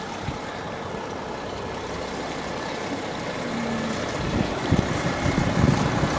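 Construction machinery running with a heavy engine drone, growing steadily louder as it is approached. Irregular low thumps and rumbles join in about two-thirds of the way through.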